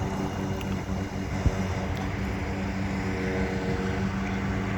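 Steady drone of a propeller aircraft engine running at a constant pitch, with wind on the microphone. One sharp tap about a second and a half in.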